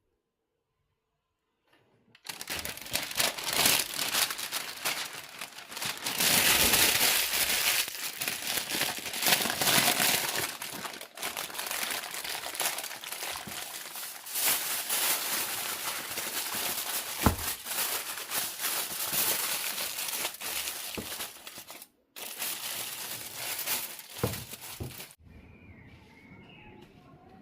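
Dense crinkling and rustling that starts about two seconds in, uneven in loudness, with a brief break near the end before it fades to a faint background.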